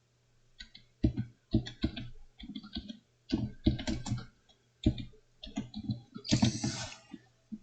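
Typing on a computer keyboard: irregular keystrokes and clicks in bursts, with a denser run about six seconds in, over a faint steady low hum.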